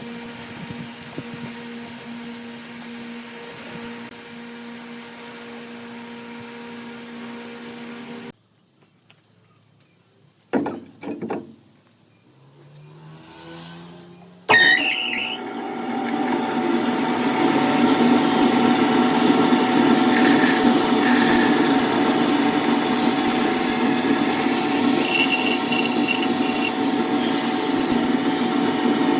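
A steady electric motor hum that cuts off about a third of the way in. After a few near-quiet seconds with a couple of knocks, a power tool starts up suddenly about halfway through and runs loudly and steadily on wood.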